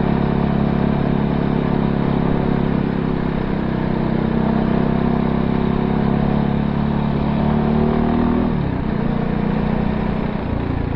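Voge 300R's single-cylinder engine running under way at steady revs; about eight and a half seconds in its pitch drops sharply as the bike slows or changes gear.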